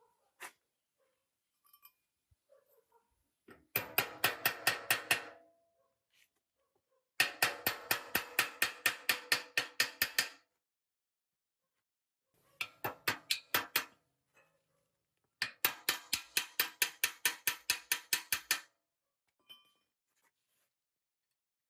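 Four bursts of rapid, evenly spaced metallic clicks, about six a second, from a hand tool working on metal machine parts.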